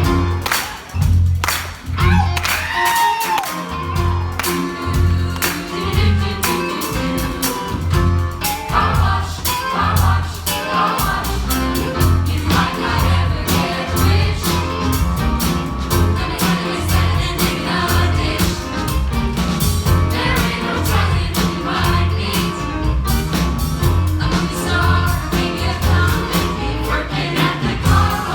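A vocal ensemble singing an upbeat funk song over a steady, pulsing bass beat.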